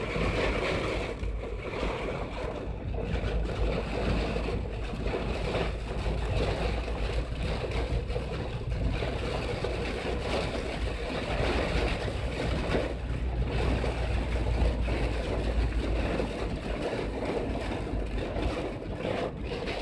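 Cloudburst rain hammering on a car's roof and windscreen, heard from inside the moving car as a dense, steady rush over the low rumble of the car.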